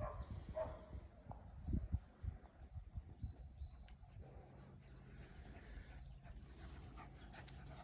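Faint birdsong: a small bird singing two short runs of quick, high notes, over a low rumble and a few soft knocks on the microphone.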